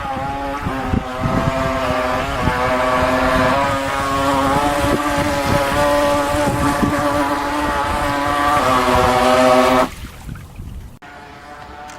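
Electric motor of a Venom Straight Jacket RC boat whining steadily as the boat runs on the water, with wind buffeting the microphone. About ten seconds in the whine drops away abruptly, then comes back fainter.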